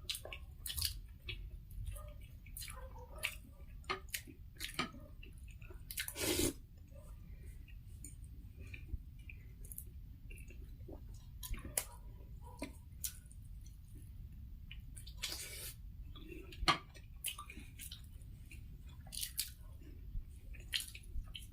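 Close-miked mouth sounds of people eating: chewing with scattered small clicks and smacks, and a couple of longer, noisier sounds about six and fifteen seconds in.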